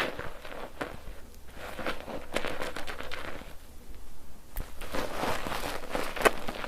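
Bar soap being worked into lather in a mesh foaming net: wet squelching and fine crackling of bubbles, in uneven surges of rubbing.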